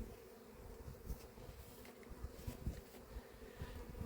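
Honeybees buzzing, a steady hum, with soft low bumps scattered through it.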